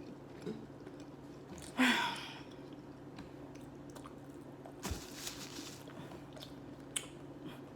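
A person chewing chicken McNuggets close to the microphone, with small wet mouth clicks. There is a short louder mouth sound about two seconds in.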